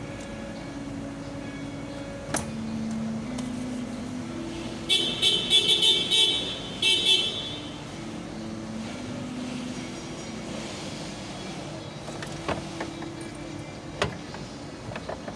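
Car horn sounding a rapid series of short toots for about two and a half seconds, starting about five seconds in, over a steady low hum.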